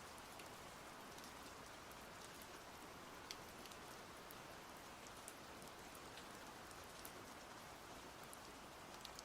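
Faint, steady rain: an even hiss with scattered single drops ticking.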